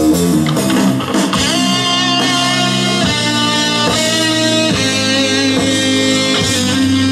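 Rock band playing an instrumental stretch between sung lines: guitar chords that change every second or so, over bass.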